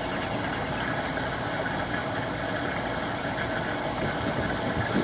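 An engine idling steadily, a constant mechanical noise.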